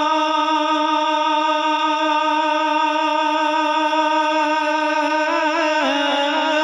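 A voice holding one long sung note of a devotional poem, wavering slightly at the start, then making a short melodic turn about five and a half seconds in.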